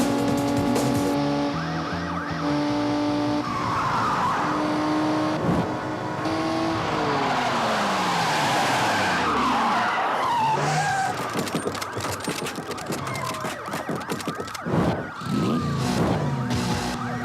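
Action-film car chase mix: background score with car engines and tyres squealing, and a run of sharp hits a few seconds before the end.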